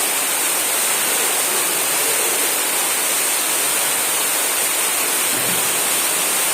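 Steady rush of running water at a swimming pool, an even hiss with no breaks.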